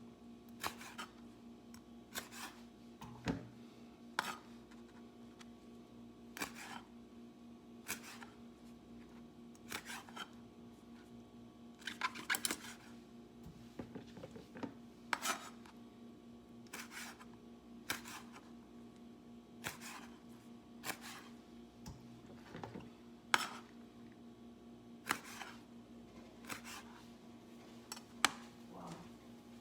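Knife chopping the toes off raw chicken feet on a cutting board: sharp single chops about every one and a half seconds, over a steady low hum.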